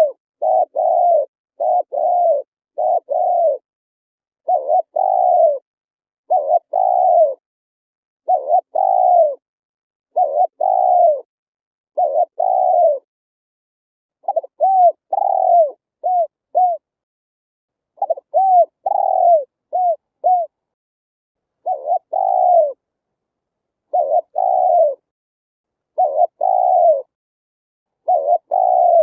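Spotted dove cooing: a repeated series of low, arched coos in short phrases, with brief silent gaps between them.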